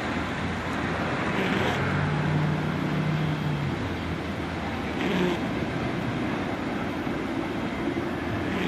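Freight train of covered hopper cars rolling along the track, a steady rumble of wheels on rail. A car drives off along the road in the first few seconds.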